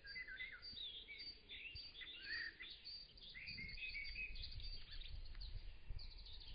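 Birds chirping and singing, a busy run of short high chirps and trills, with a faint low rumble underneath that grows in the second half.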